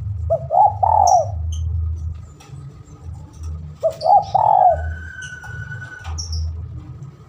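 Spotted dove (tekukur) giving its rolling coo twice, once near the start and again about four seconds in, as a territorial call to draw a rival. Faint high chirps from other birds and a steady low hum run underneath.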